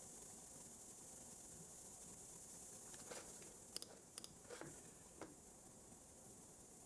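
Steady faint hiss, with a short run of about five soft clicks and taps from computer typing and mouse use about three to five seconds in.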